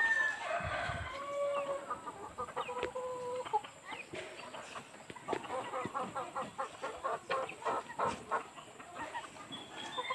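Birds calling: a few short held notes in the first few seconds, then a quick run of short repeated calls in the second half.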